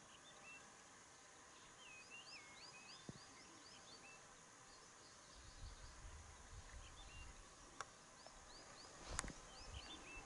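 Faint bird calls: quick runs of short, up-curving chirps in two spells, over a faint hiss. A low rumble comes in about halfway through, and a single sharp click sounds about nine seconds in.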